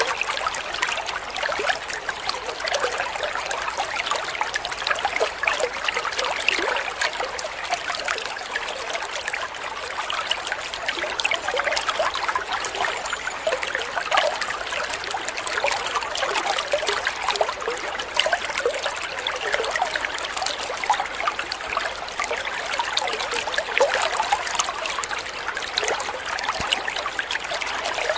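Shallow stream water trickling and babbling steadily over stones, a dense run of small splashes and gurgles with no let-up.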